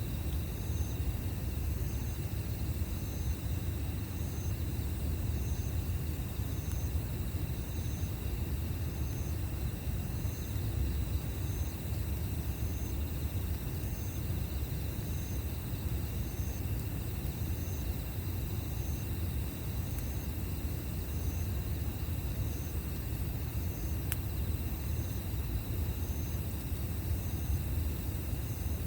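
An insect, cricket-like, chirping regularly about once a second over a steady low rumble, with a single sharp pop near the end.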